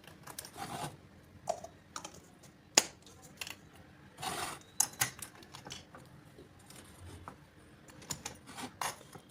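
Irregular clicks and short scraping sounds of small hard objects being handled, with one sharp click about three seconds in.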